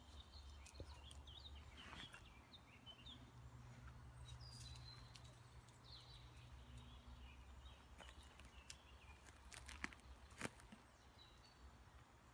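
Faint woodland ambience: a low steady rumble of wind or handling noise, with short small-bird chirps in the first few seconds. A few sharp snaps sound in the second half, the loudest about ten seconds in.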